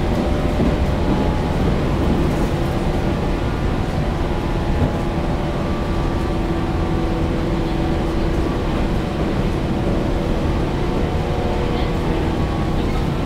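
Steady running noise inside the carriage of a moving local electric train, which the uploader takes for a JNR-era 413 series. A steady hum grows stronger from about halfway through.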